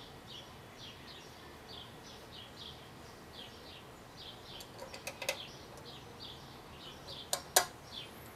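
A bird chirping over and over in short high notes, about two a second. Sharp metal clicks of small carburetor parts being handled and fitted come about five seconds in and again, loudest, near the end.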